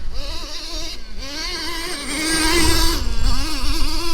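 Traxxas T-Maxx 3.3's small two-stroke nitro engine revving up and down as the truck drives, with a wavering pitch that climbs and holds high about two seconds in, then drops back about a second later.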